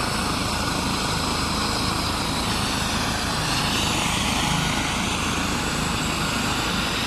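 Medical helicopter running on the ground, its rotor blades turning and engine going at a steady pitch.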